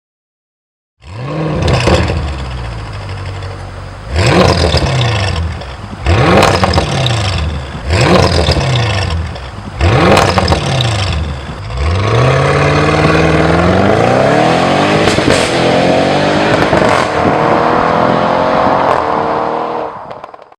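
Audi RS7's 4.0-litre twin-turbo V8 through a Milltek non-resonated cat-back exhaust. It gives a series of sharp free revs about two seconds apart, then a long run of acceleration with the engine pitch climbing steadily.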